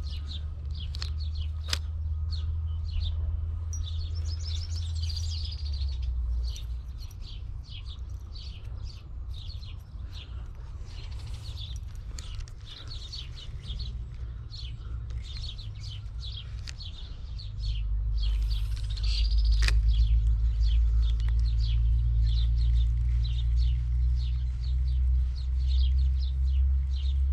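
Small birds chirping and calling over and over, with a steady low rumble underneath that grows louder about two-thirds of the way through.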